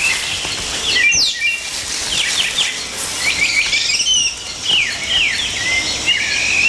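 Rainforest canopy ambience: many short, high chirping calls, quick downward-sliding chirps repeating over a steady hiss.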